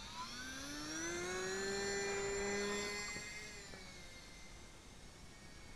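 Micro RC Cessna's small electric motor and propeller whining, rising in pitch as the throttle opens over the first second or so, holding steady, then fading after about three seconds as the plane flies off.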